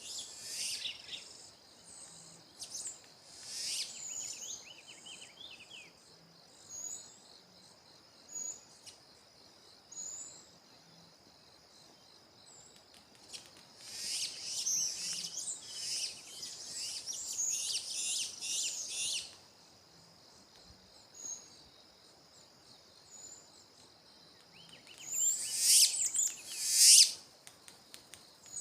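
Songbirds singing in bursts of rapid, high warbling and chirping, with short single chirps between. A long spell of song comes about halfway through and the loudest burst near the end, all over a steady high-pitched hum.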